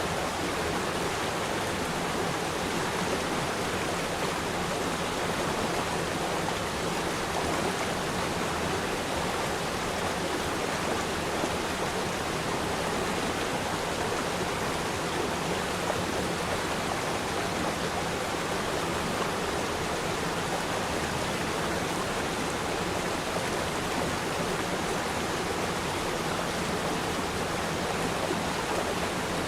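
River stream flowing steadily: a continuous, even rush of water.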